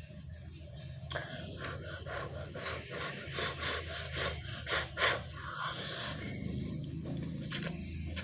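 A person slurping and eating instant noodles close to the microphone: a run of short slurps about every half second for the first few seconds, then quieter eating.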